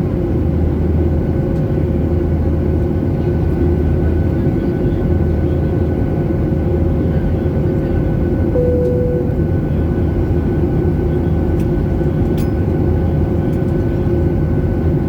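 Steady jet engine and airflow noise heard inside an airliner cabin, with a constant hum running through it. A brief short tone sounds just past halfway.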